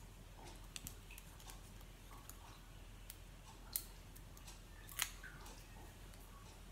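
Faint tabletop handling of paper-craft pieces: light scattered ticks and rustles, with two sharper clicks a little under four seconds and about five seconds in.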